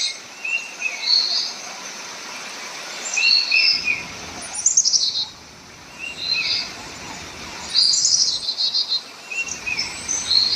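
Birds chirping and calling in short, repeated high phrases every second or two, over a steady hiss of background noise.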